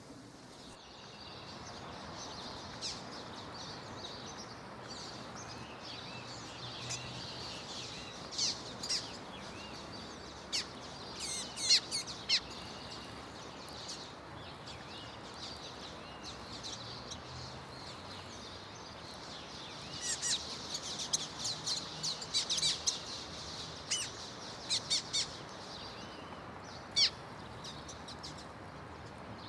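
Common waxbills chirping: short, high twittering notes that come in scattered clusters, busiest in the second half, over a steady background hiss.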